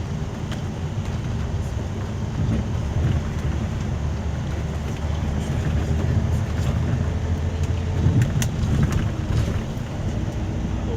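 Scania coach's engine and road noise heard from inside the passenger cabin, a steady low rumble at road speed, with a few light clicks or rattles about eight seconds in.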